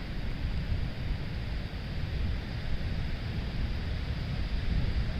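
Wind buffeting the microphone: a steady low rumble with a faint hiss over it.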